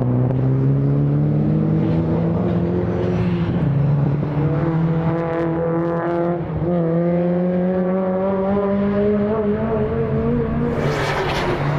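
Time attack race car engine accelerating under load, its pitch climbing steadily and dropping sharply at upshifts about four seconds and six and a half seconds in, then climbing again. A loud rush of noise comes in near the end.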